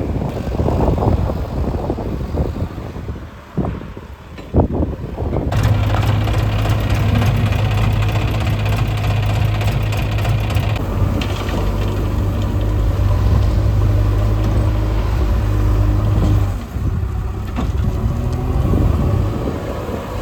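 Heavy machinery diesel engine running steadily at constant speed. It comes in strongly about five and a half seconds in and drops back near the end, after a low, uneven rumble.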